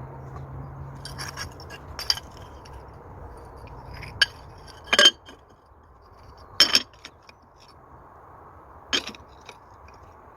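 Bricks clinking and knocking against each other as they are set in place, dry-laid without mortar: about half a dozen sharp, separate knocks spread irregularly, the loudest two in the middle.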